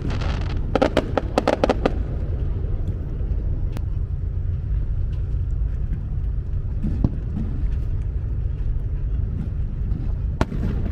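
Fireworks crackling: a quick string of sharp crackles in the first two seconds, then a steady low rumble with a few isolated pops.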